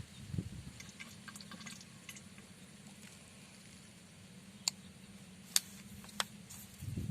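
Faint water sounds with scattered light ticks, then three sharp clicks in the second half.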